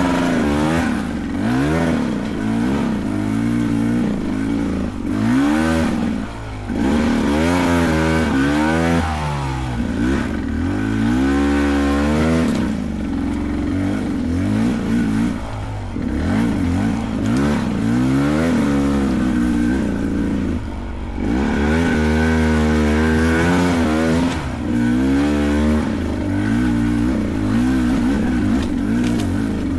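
Beta 300 Race dirt bike's two-stroke engine revving up and down over and over as the throttle is worked on a steep, technical trail climb, its pitch rising and falling every second or two.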